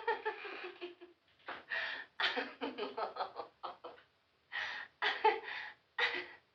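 People laughing in clusters of quick, short bursts, with pauses between.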